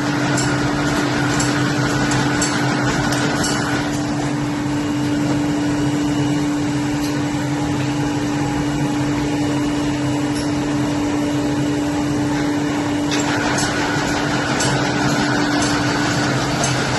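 Zahoransky Z.LION 5-axis CNC brush-making machine running, a steady mechanical hum with a broad hiss. A higher whine and a rapid patter of sharp clicks sound for the first few seconds, stop, and start again about two-thirds of the way through.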